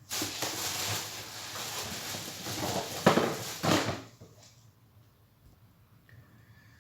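Caustic soda being shaken out of its pot into a container of water: a rattling, hissing pour for about four seconds, with two louder taps about three seconds in, then it stops.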